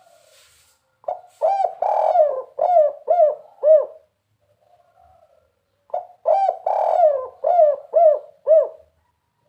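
Spotted dove (tekukur) cooing in its 'kuk 3' song: two phrases of about six arching coos each, a couple of seconds apart.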